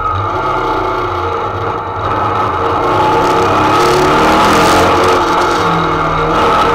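In-cabin sound of a 2.6-litre Type 4 flat-four race engine, fed by Weber 48 IDA carburettors through a four-into-one header, pulling the VW Beetle 1303 hard under load and growing louder about two seconds in as it accelerates.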